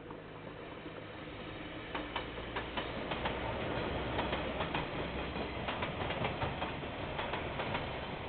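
KiwiRail train passing: a low locomotive engine hum grows louder, then from about two seconds in the wheels click over the rail joints in a quick, irregular run.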